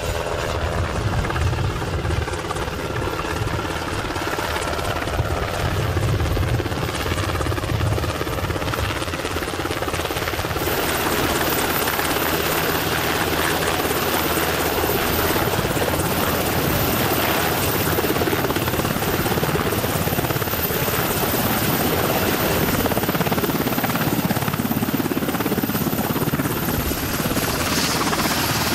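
Helicopter running overhead, a steady rotor and turbine din. About a third of the way in it turns brighter and slightly louder, a broad rush that continues steadily.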